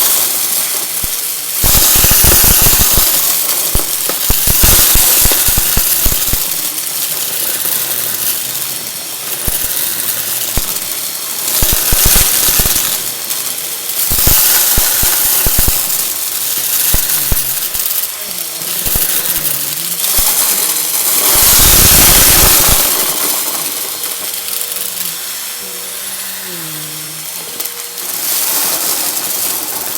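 Vacuum cleaner running and sucking up crunchy confetti, a dense crackling rattle of bits going up the intake over the motor's rush, in surges that rise and fall. This is the uploader's "muffled crunch".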